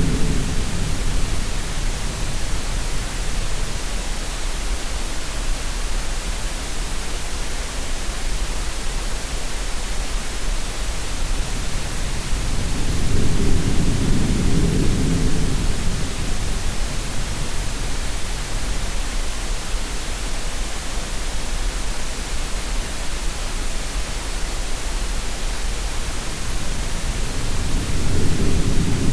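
Steady green-noise hiss mixed with sea waves: a low surge swells and fades about every fourteen seconds, once around the middle and again near the end.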